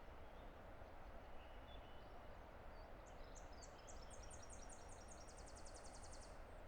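Faint, steady rush of a distant river. From about halfway through, a small songbird sings a run of high, evenly repeated notes that speed up into a fast trill before stopping near the end.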